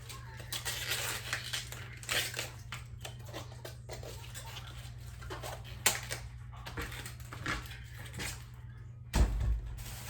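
Outer leaves being peeled and snapped off a head of cabbage by hand, an irregular crackling and tearing, with a sharp click about six seconds in and a heavier thump about nine seconds in.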